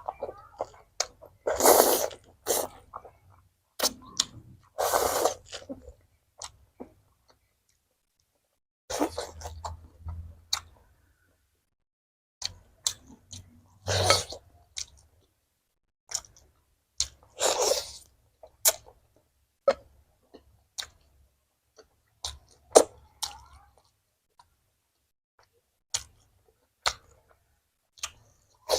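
Close-miked eating: bites and chewing come in separate short bursts, broken by brief silences.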